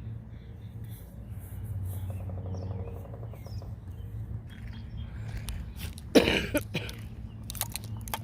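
A person coughing once, sharply, about six seconds in, over a steady low rumble.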